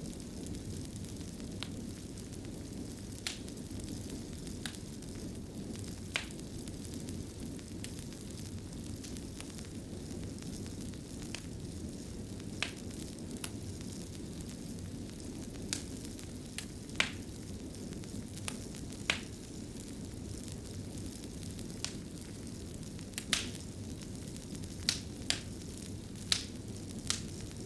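Wood fire crackling in a fireplace: a steady low rumble of burning with sharp pops scattered through it, coming more often in the last few seconds.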